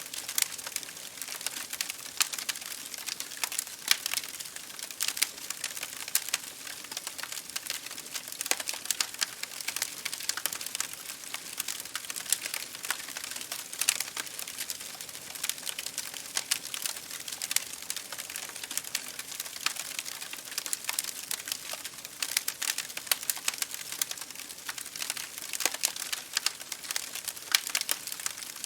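Wood fire crackling in a fireplace, with many small irregular pops and snaps, over a steady hiss of rain pattering on window glass.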